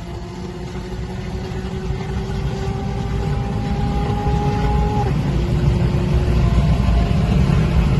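Car engine accelerating hard under a growing rumble. A steady whine rises slightly and steps down in pitch about five seconds in.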